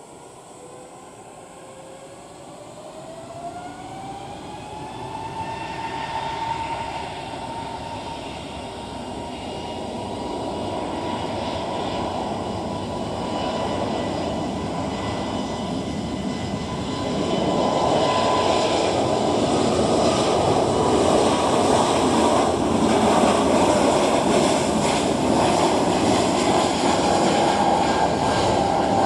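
Airbus A320neo's Pratt & Whitney PW1100G geared turbofans spooling up to takeoff power: the engine whine rises in pitch over the first few seconds, then holds a steady tone under a growing roar that gets louder about halfway through.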